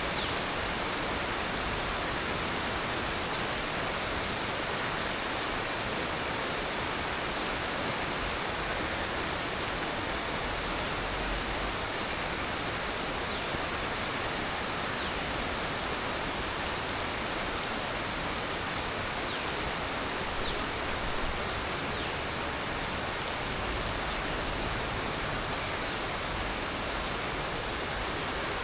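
Heavy tropical monsoon rain falling steadily, a dense, even hiss of rain on leaves and rooftop surfaces.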